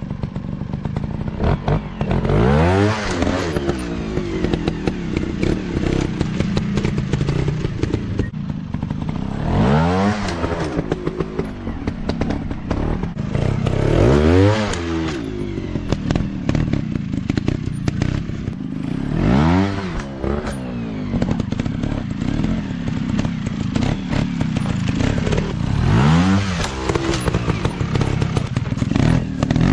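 150cc dirt bike engine revving up and falling back again and again, about five big rises in pitch, with rattles and knocks in between.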